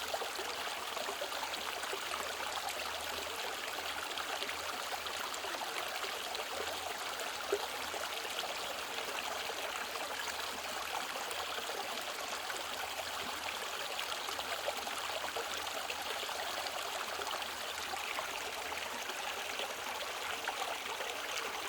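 Mountain valley stream flowing over rocks: a steady, even babble and trickle of running water.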